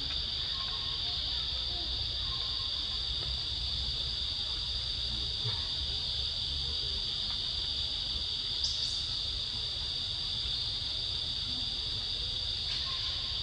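Steady, unbroken high-pitched drone of an insect chorus, with a brief high chirp about two-thirds of the way through.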